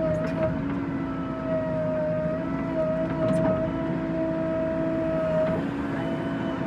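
Tractor engine running at a steady speed, with a steady high whine over the engine drone; the pitch shifts slightly about half a second in and again near the end.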